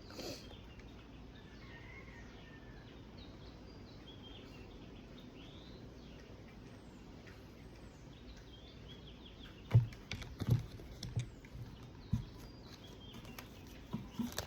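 Faint, scattered bird chirps over a quiet steady background, with a few short soft thumps from about ten seconds in.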